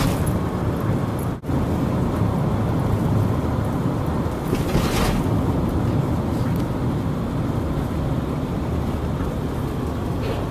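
Steady road and engine noise inside a moving car's cabin, with a brief dropout about a second and a half in and a short swell of hiss about five seconds in.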